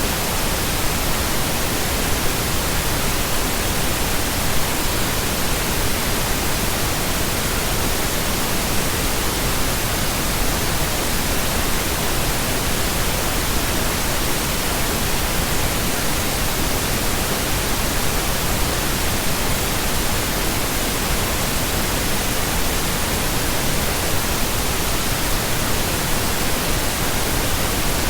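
Steady, continuous pink noise: an even, unchanging hiss with no variation or events.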